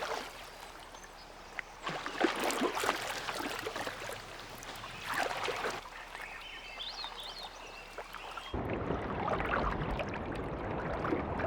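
Water splashing and lapping, with a faint high wavering call about two thirds of the way through. Then an abrupt cut to a steady rush of fast-flowing stream water.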